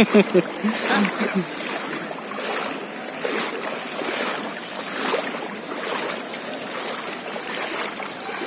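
Floodwater sloshing and splashing in a steady wash, with a soft splash pulse about once a second, as something moves through the water. A brief voice is heard in the first second or so.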